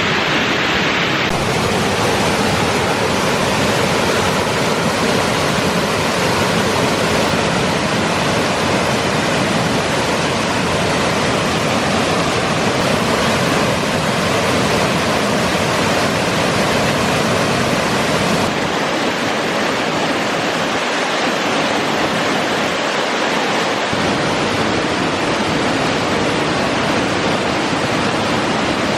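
Waterfall on a rainforest creek: a loud, steady roaring rush of falling water.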